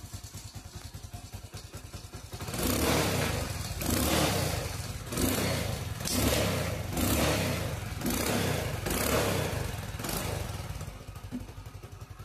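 A 1999 Hero Honda Splendor's single-cylinder four-stroke engine idling, then revved in about eight quick throttle blips from a couple of seconds in until near the end, when it settles back to idle.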